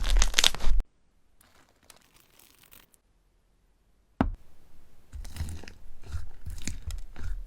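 Slime being squeezed and worked by hand, with a dense crunching and crackling that cuts off suddenly under a second in. After about three seconds of near silence there is a sharp click, then softer crackling and popping starts up again and grows louder.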